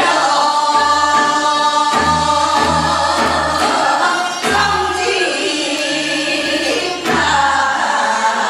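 Several voices singing a Gyeonggi hwimori japga, a fast patter-style Korean folk song, in unison, over low drum strokes that keep a regular beat.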